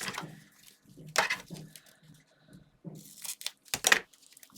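Paper and card being handled and pressed down, with several short crinkling, scratchy sounds, the loudest about a second in and again between three and four seconds in. Muffled drums from another room thump low underneath.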